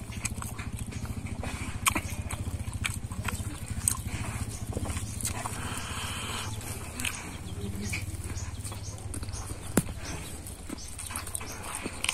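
Close-up eating sounds: chewing and wet lip-smacking with many small sharp clicks as mouthfuls of rice and pork curry are eaten by hand, over a low steady hum.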